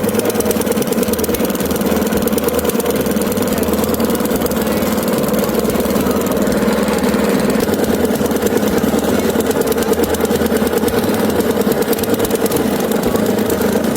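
Small boat engine running steadily at one constant speed, with a rapid, even firing chatter.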